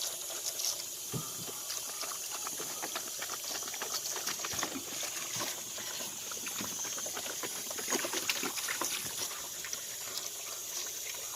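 Water splashing and trickling, with many small irregular splashes and ticks over a steady hiss.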